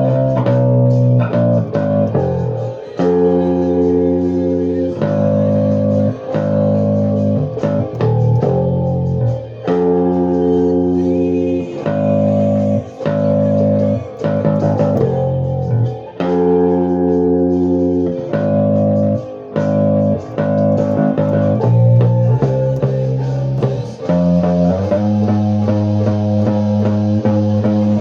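Music: guitar with bass playing held chords that change every second or two in a repeating pattern.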